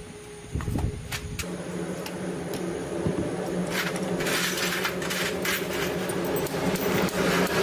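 A few knocks, then a motor starts about a second and a half in and runs steadily at an even pitch. A harsher hiss joins it about four seconds in.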